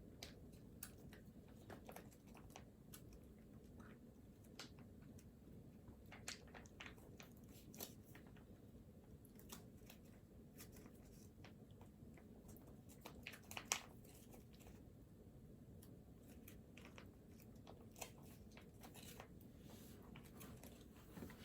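Near silence: room tone with faint, scattered small clicks and taps, one a little sharper than the rest about two-thirds of the way through.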